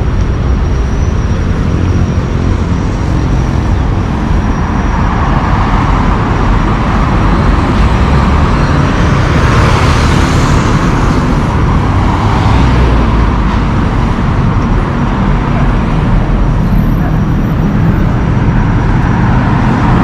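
Steady road traffic running past, with a louder vehicle swelling up and passing about halfway through.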